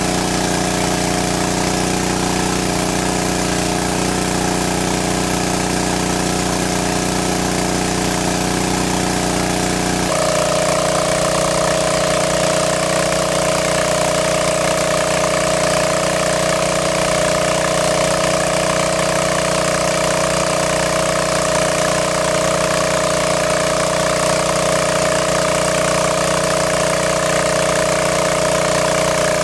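Small engine running steadily at a constant speed; about ten seconds in its tone shifts abruptly to a higher, steady pitch, as if the throttle was changed.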